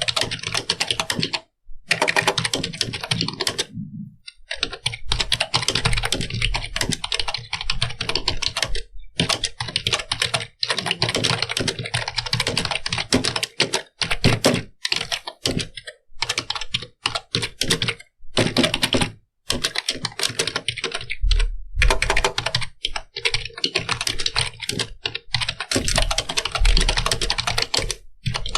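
Computer keyboard being typed on quickly: rapid key clicks in continuous runs, broken by a few short pauses.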